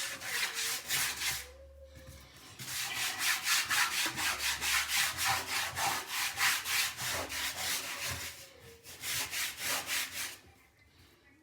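A scrub brush scrubbing a bathroom surface hard and fast, in sped-up playback, with rapid back-and-forth strokes at about five a second. There are brief pauses about two seconds in and again near the end, and it stops shortly before the end.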